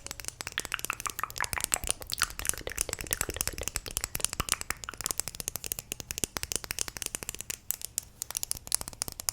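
Close-miked ASMR trigger: a dense, irregular stream of quick crackling clicks, many a second.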